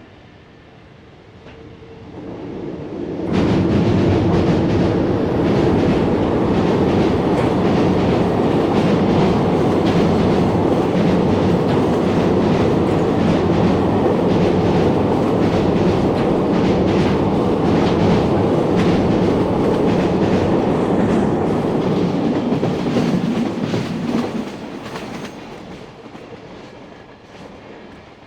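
Electric-locomotive-hauled freight train passing close by: the locomotive arrives loudly about three seconds in, followed by about twenty seconds of wagon wheels clattering over the rail joints, then the sound fades as the last wagons go by.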